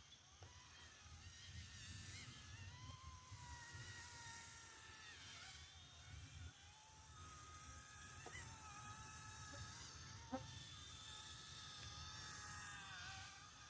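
Faint whine of an RC model's small electric motor, drifting slightly up and down in pitch, over a low rumble. There is one short click about ten seconds in.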